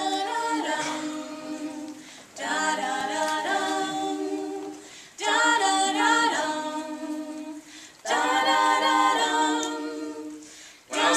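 A cappella vocal group singing wordless, sustained chords in four phrases of about three seconds each, each one starting loud and fading away.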